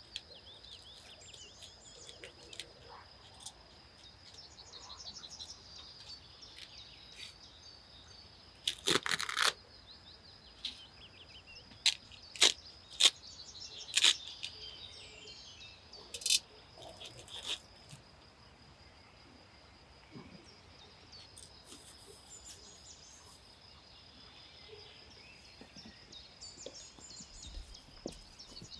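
Small birds chirping over a steady high-pitched hum. A short noisy burst comes about nine seconds in, followed by several sharp cracks a few seconds later.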